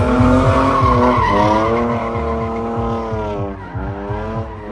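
Drift car engine held at high revs while the car slides, with tyre squeal. The engine note drops and picks up again about a second in, and once more after three and a half seconds.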